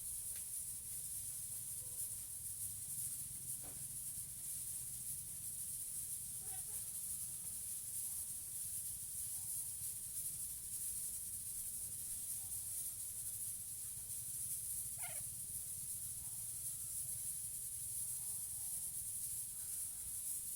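A steady high hiss over a low hum, with a few faint, short parrot calls here and there, the clearest about fifteen seconds in.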